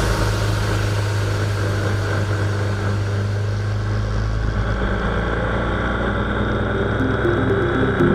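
BMW R1200GS Adventure's boxer-twin engine running at a steady, even note, with music coming in near the end.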